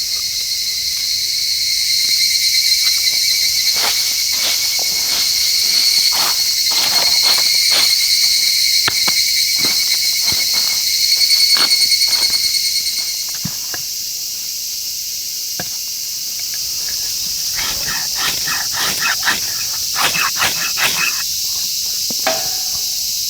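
Insects trilling in a steady, high-pitched chorus that fades about 13 seconds in. Scattered short clicks and knocks sound through it, with a denser cluster near the end.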